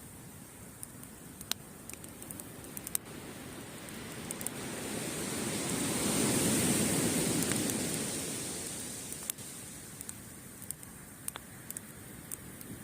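A wave surging up the beach and washing back: the surf swells to a peak in the middle and then fades. Throughout, a wood campfire crackles with scattered sharp pops.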